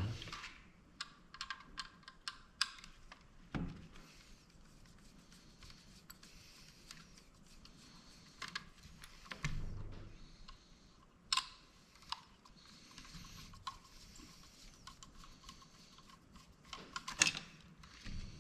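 Scattered small clicks and taps of a hand tool working on the plastic and metal parts of a dome security camera being taken apart, with a few duller knocks and a louder cluster of clicks near the end.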